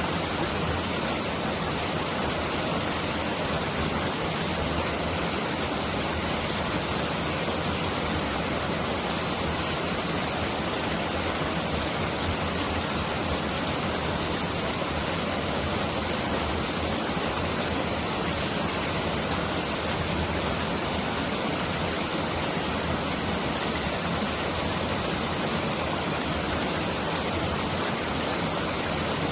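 Mountain valley stream flowing, a steady, dense rush of water that sounds much like heavy rain pouring down.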